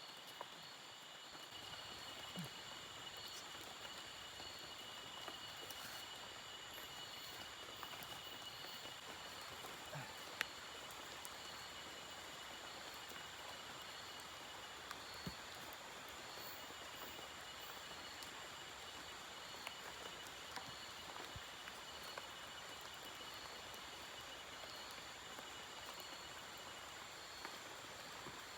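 Light rain hissing steadily in tropical forest, with scattered drips ticking. Insects keep up a steady high drone, and one caller pulses about once a second.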